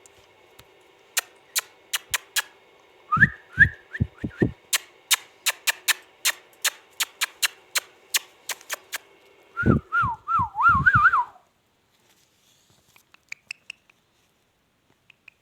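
Indian ringneck parrot whistling: short rising whistle notes about three seconds in and a warbling whistle that wavers up and down about ten seconds in, amid a run of sharp clicks. The sounds stop abruptly at about eleven seconds, leaving only a few faint ticks.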